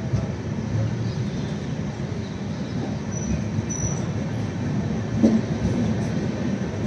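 Coaches of an express passenger train running past at speed: a steady low rumble of wheels on the rails.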